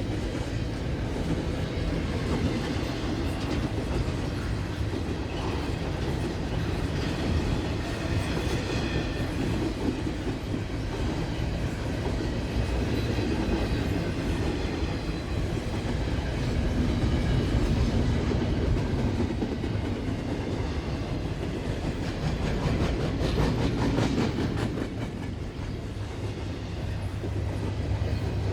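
Freight train rolling past: a steady rumble of cars on the rails, with wheels clicking over the rail joints.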